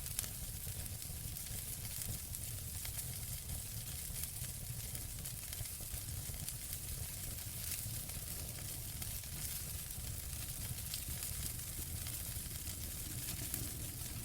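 Fire in a fireplace crackling: a steady hiss dotted with many small sharp pops, over a low rumble.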